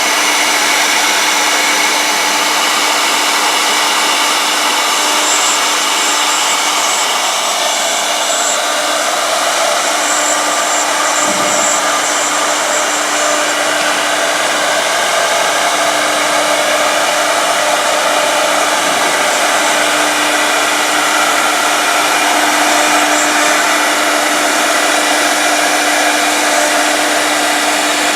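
Two-head 1325 CNC router running: a loud, steady machine whine and hiss from its spindles that holds level throughout.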